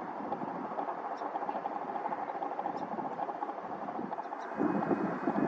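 Aircraft engine running steadily, growing louder about four and a half seconds in.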